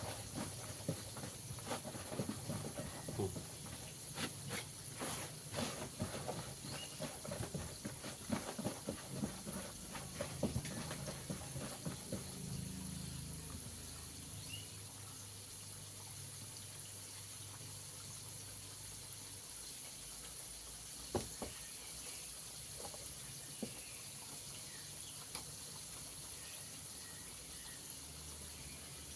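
Flour-coated chicken pieces deep-frying in hot oil. Dense crackling for about the first twelve seconds, then it settles to a steady, quieter sizzle with an occasional pop.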